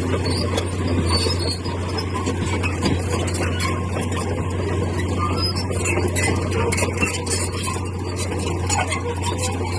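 Heavy earthmoving machine at work: a diesel engine running steadily under a low hum, with scattered clinks and squeaks of metal and stone over it.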